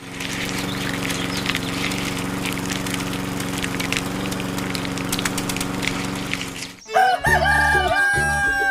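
A steady mechanical drone holding one constant pitch, with scattered light clicks over it. It cuts out abruptly about seven seconds in and gives way to fiddle-like music.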